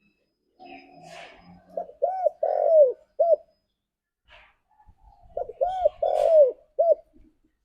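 Spotted dove cooing: two calling phrases a few seconds apart, each a soft lead-in followed by a run of four low, arched coos that rise and fall in pitch.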